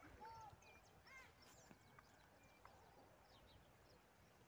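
Faint birdsong: scattered short chirps and whistles over a quiet outdoor background.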